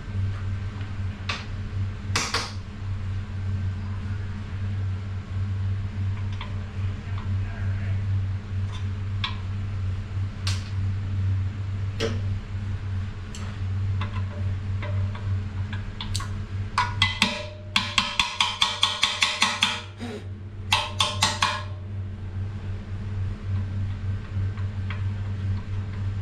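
Hand tools working on a Ford AOD transmission: scattered metal clicks and taps, then a fast run of ratchet clicks about two-thirds of the way through, with a short second run just after, over a steady low hum.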